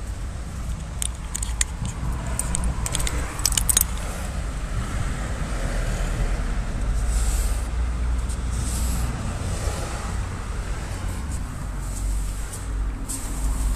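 Clattering with sharp metallic clinks and jingles over a steady low rumble, the clinks thickest in the first few seconds.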